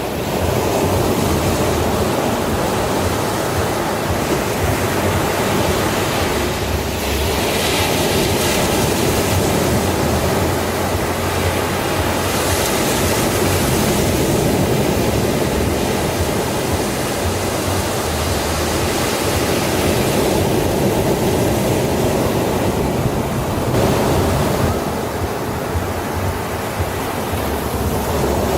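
Sea waves on a beach: a continuous rush of surf, with louder breakers swelling up every few seconds.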